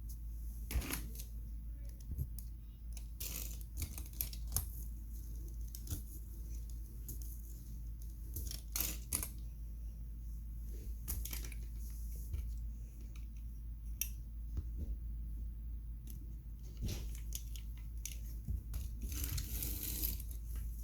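Scattered light clicks, taps and rustles of small plastic toy cars and trucks being handled and pushed through playdough, over a steady low hum.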